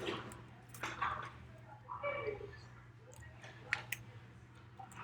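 Folded paper units being handled during assembly: a few small taps and clicks, with a faint voice in the background about two seconds in.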